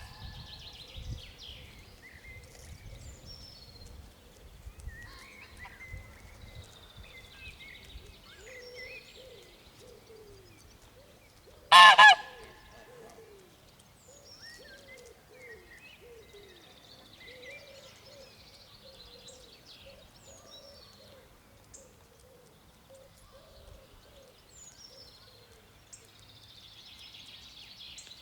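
Barnacle goose giving one loud, sharp double honk about twelve seconds in, over steady small-bird chirping and soft low calls.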